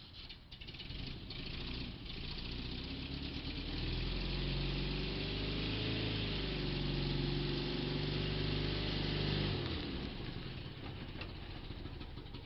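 A VW Type 2 bus's air-cooled flat-four engine running. It builds up over the first couple of seconds, holds steady with a slight rise and fall in pitch in the middle, then drops in pitch and fades out about three seconds before the end.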